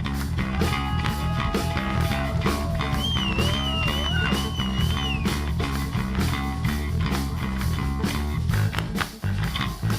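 Live funk-rock band playing instrumentally: a busy electric bass line and drum kit beat, with a held lead note wavering in wide vibrato from about three to five seconds in.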